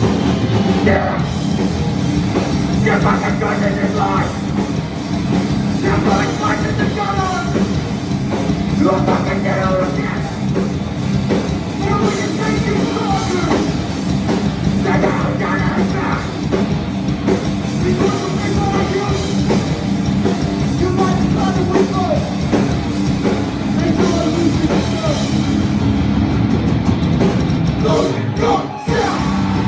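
Live hardcore punk band playing loudly: distorted guitars, bass and pounding drums, with shouted vocals breaking in every few seconds over the music.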